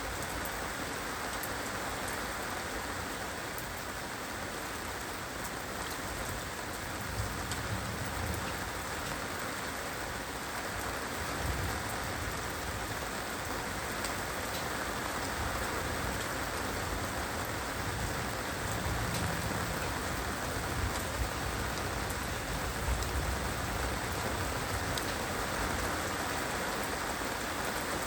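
Heavy rain falling steadily, a dense hiss with scattered sharper drop hits. Low rumbles swell and fade now and then.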